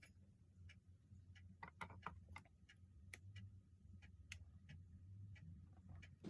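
Faint, scattered light clicks over a low steady hum.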